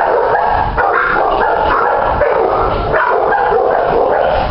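Dogs barking and yipping, a steady din with no pauses.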